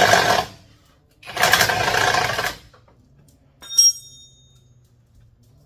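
Power wrench running in two short bursts, driving out the last bumper bolts, followed a little under four seconds in by a single metallic clink with a brief ring, like a bolt or small metal part dropping. A faint steady low hum runs underneath.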